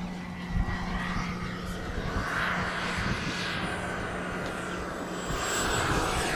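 Model jet's K-102 turbine whining as the RC MB-339 flies at a distance, a thin high tone slowly falling in pitch and growing louder near the end as it comes closer. Wind gusts rumble on the microphone.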